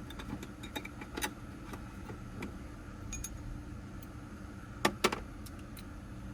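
Metal hand tools clinking and clicking as they are picked up and handled, with two louder clanks in quick succession about five seconds in.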